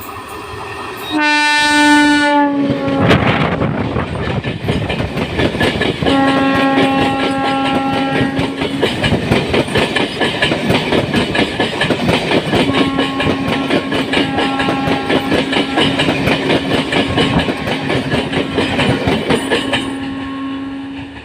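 MEMU electric multiple-unit train passing close. A horn blast comes about a second in and dips slightly in pitch as the train goes by. Then comes the steady clatter and clickety-clack of wheels over the rail joints, with a second horn blast around six seconds and a long held horn from about thirteen seconds almost to the end.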